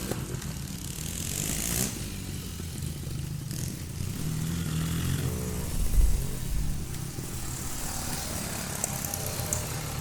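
Trials motorcycle engine running at low revs, with a loud thump about six seconds in.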